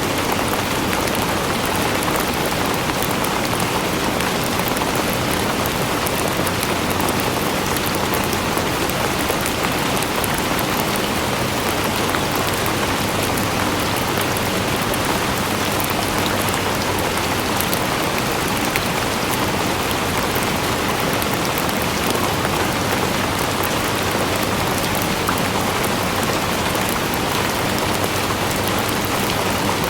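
Steady, heavy rain falling, with a dense patter of drops striking a surface.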